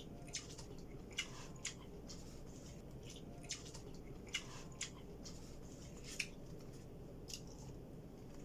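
Close-up eating sounds: wet mouth clicks and lip smacks while chewing, coming irregularly about every second, some louder than others, over faint room noise.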